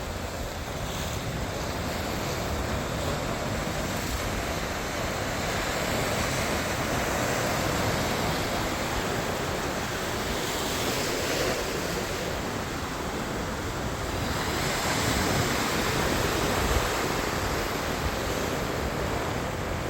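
Ocean surf: waves breaking and washing up the beach in slow surges, with wind buffeting the microphone.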